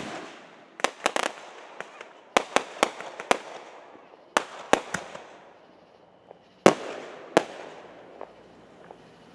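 Fireworks exploding in a ragged series of sharp bangs, each with an echoing tail. The loudest two come about two-thirds of the way in, and then the bangs die away.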